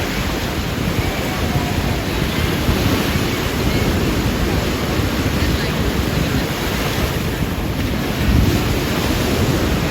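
Surf washing onto a sandy beach, mixed with wind buffeting the microphone in a steady low rumble.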